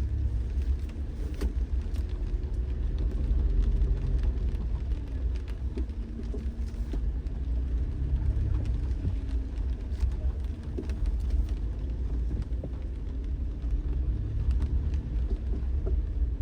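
Car driving on the road: a steady low rumble of engine and tyres with a faint wavering drone, and scattered faint ticks.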